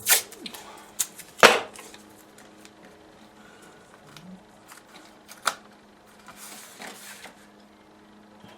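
Several sharp taps and knocks, the loudest about a second and a half in and another near five and a half seconds, then a brief rustle: a painting and its card mount being handled on a tabletop, over a faint steady hum.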